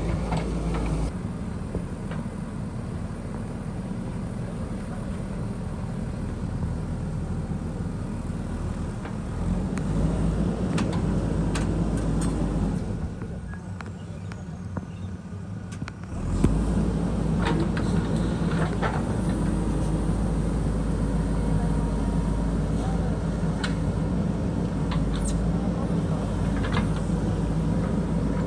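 Diesel engine of a JCB backhoe loader running under varying load, with scattered knocks and clanks. The engine eases off for a few seconds about halfway through, then picks up sharply.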